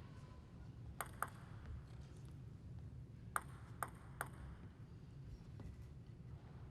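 A table tennis ball bouncing, heard as faint light pings: two about a quarter second apart, then three more about half a second apart, over a low steady hum of the hall.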